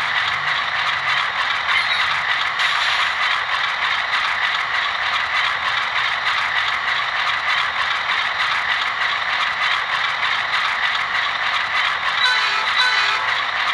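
An HO-scale Bowser MLW M630 model diesel locomotive running on the track, giving a steady, even mechanical clatter. A few short pitched notes come in near the end.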